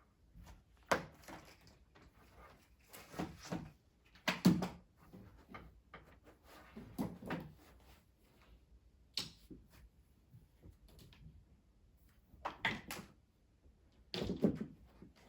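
Scattered knocks and clatters of household things being handled, like doors or cupboards being opened and shut, about seven over the stretch, with the loudest a little over four seconds in.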